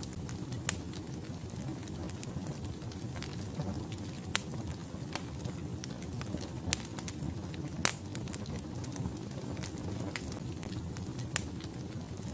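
Wood fire burning in a fireplace: a steady low rumble of flames with sharp crackles and pops at irregular moments, a few of them much louder than the rest.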